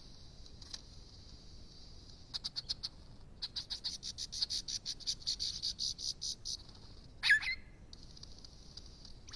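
Steady high-pitched insect buzz, joined by a rapid, evenly pulsed high trill of about six chirps a second. About seven seconds in there is a single short, loud bird call that falls in pitch.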